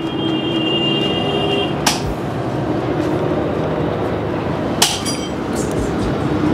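Steady road-traffic noise with a faint held tone, broken by two sharp clinks, one about two seconds in and one near five seconds.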